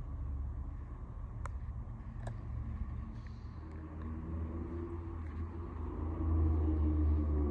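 Low, steady vehicle rumble that grows louder in the last two seconds, with a few faint clicks.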